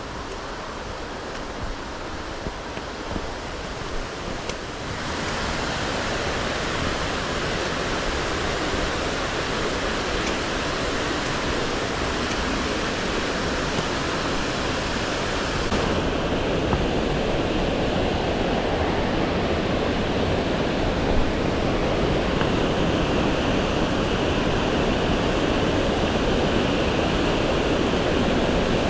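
Steady rush of flowing water, a dense even hiss. It grows louder and brighter about five seconds in, and its character shifts again about halfway through.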